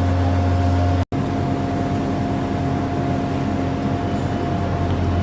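A train standing at the platform, its engine or onboard equipment giving a steady low drone with a few constant tones, briefly cut off for an instant about a second in.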